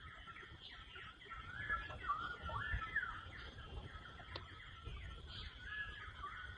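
Songbirds chirping and whistling in short repeated phrases that rise and fall, over a steady high buzz.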